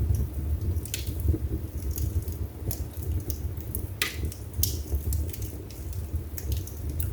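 Wood fire burning in a fireplace: a steady low rumble of the flames with irregular sharp crackles and pops, the loudest about four seconds in.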